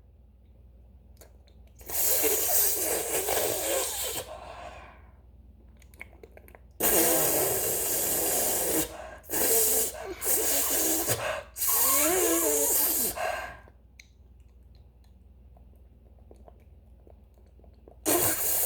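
Loud, harsh, breathy vocal noises made close to the microphone, in four bursts of about two seconds each with short quiet gaps between them. They are loud enough that one of the children then says the viewers' ears are hurting.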